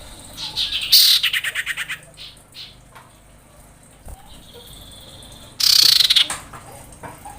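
Female common iora calling: a long, steady, high whistle followed by a loud, rapid, chattering trill, heard twice. It is the call of a female in breeding condition calling to a male.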